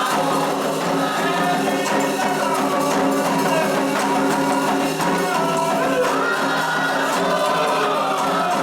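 Candomblé ritual music for Xangô: a group of voices singing together over steady hand percussion with a jingling, tambourine-like shaken part.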